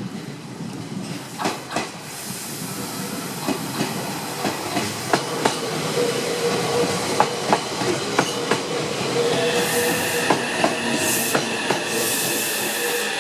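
Meitetsu electric train moving through the station, its wheels clicking over rail joints, getting gradually louder. About nine seconds in a steady high whine joins, and there are bursts of hiss near the end.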